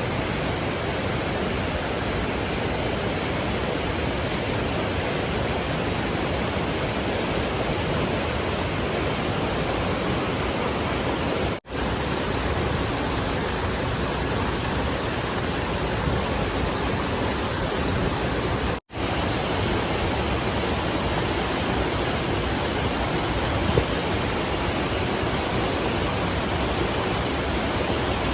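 Fast-flowing mountain stream water rushing steadily, cut off for an instant twice.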